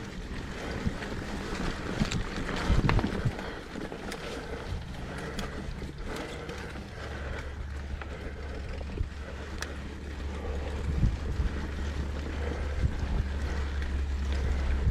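Wind buffeting the microphone of a mountain bike rider's GoPro on a downhill trail run, with tyre noise on dirt and scattered knocks and rattles from the bike over bumps. The low wind rumble grows stronger about halfway through, as speed picks up.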